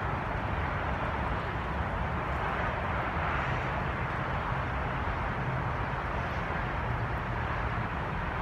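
Steady, unbroken hum of distant road traffic.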